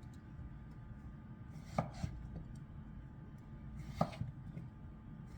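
Knife slicing quartered zucchini into half-inch pieces: a few sharp taps of the blade hitting the cutting board, two close together about two seconds in and another about two seconds later.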